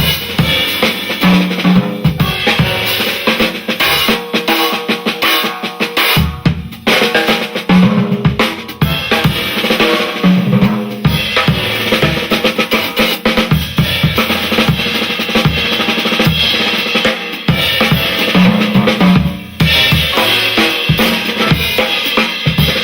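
Jazz piano trio playing: piano, double bass and drum kit, with busy drum and cymbal strokes throughout.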